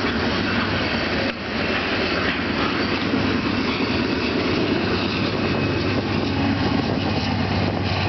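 A passing train rolling along the rails: a steady, loud rumbling noise with a low hum under it, dipping briefly about a second in.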